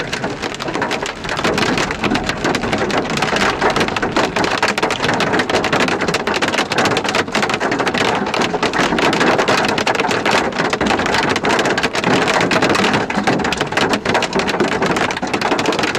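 Heavy rain pelting a car's windshield and roof, heard from inside the car: a dense, steady hiss of rain packed with sharp drop impacts.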